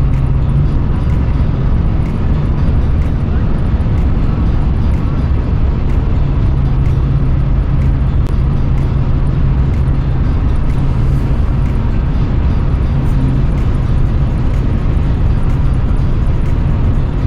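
Car driving at a steady speed: continuous engine and road rumble with a low steady hum.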